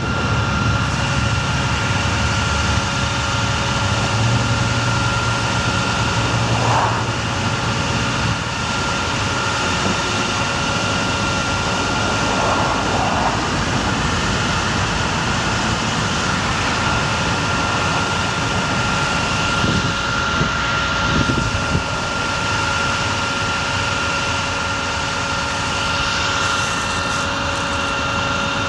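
Bucket truck running steadily, a constant engine noise with a thin high whine held over it.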